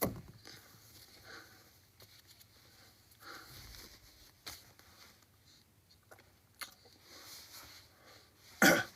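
Faint breathing and small handling clicks, then a short, loud sniff near the end.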